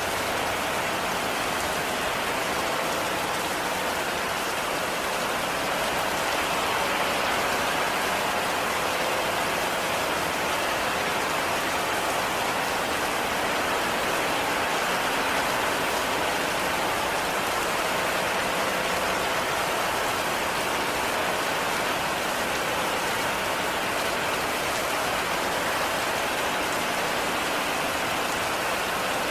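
Heavy rain falling steadily on a cabin, an even, unbroken hiss of rain with no letup.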